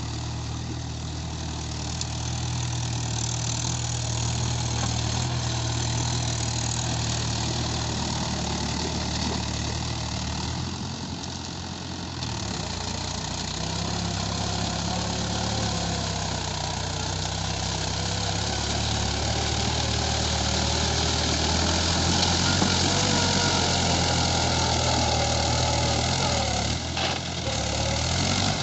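Farm tractor's diesel engine running while the tractor is stuck in rice-paddy mud. It runs steadily, changes speed about a third of the way through, then grows louder in the second half.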